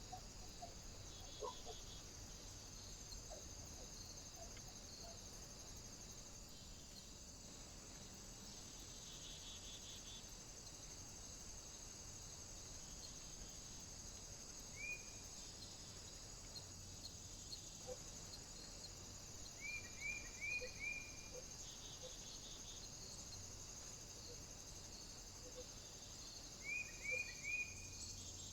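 A bird gives short, high, upward-flicking chirps over a steady high-pitched hiss: a single one about halfway, then two quick runs of three or four near the end.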